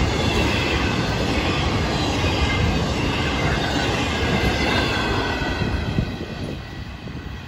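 Intermodal freight train cars rolling past at close range, wheels on rail, with a faint high wheel squeal over the rumble. The sound drops off about six seconds in as the last cars move away.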